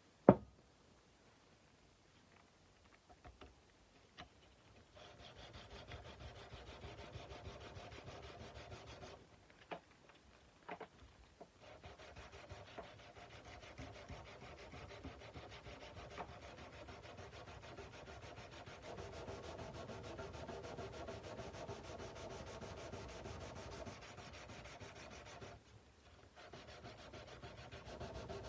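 Hand sanding a steel kukri blade: sandpaper rubbed along the metal in quick, even strokes, in three long stretches with short pauses between them. A single sharp knock comes right at the start, and a few light clicks fall in the pauses.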